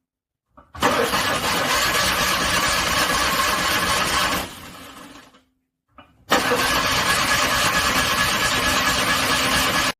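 A cold car engine being cranked in two attempts of about three to four seconds each, with a short silence between. The engine struggles and does not settle into an idle.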